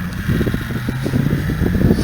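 Twin-turbocharged Mercedes OM603 straight-six diesel in a GMC CCKW 6x6 army truck running under way. Its low engine note drops a little about half a second in, then holds steady.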